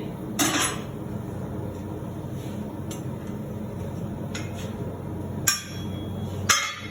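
Steel clanking on steel as a hot bar held in a vise is twisted with a 3/8 inch round-stock lever. There is one clank about half a second in, faint taps in the middle, and two sharp ringing clinks near the end, over a steady low hum.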